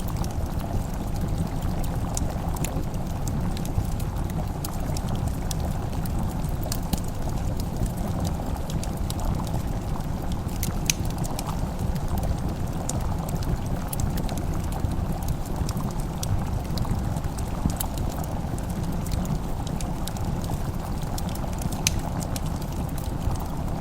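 Layered kitchen-and-fireplace ambience: a steady low bubbling like a pot simmering, with scattered small sharp crackles of a wood fire throughout.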